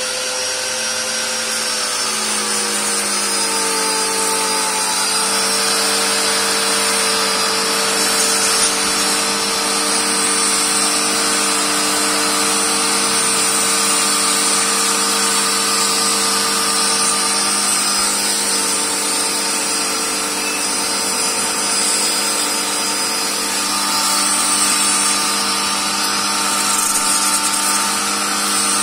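A small motor running steadily with a continuous whine. Its pitch sinks a little in the first few seconds and then holds steady.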